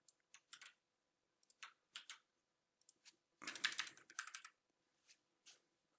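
Faint typing on a computer keyboard: scattered keystrokes, with a quick run of them a little past halfway.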